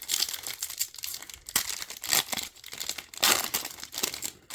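Plastic wrapper of a trading card pack crinkling and tearing open in irregular rustling bursts.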